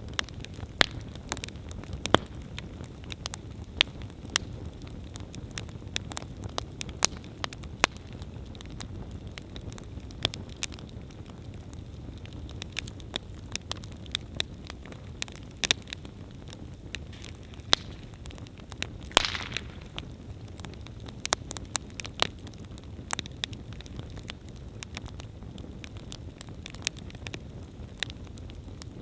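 Wood campfire burning steadily with a low rumble of flame and frequent sharp crackles and pops; a louder pop with a brief hiss comes about two-thirds of the way through.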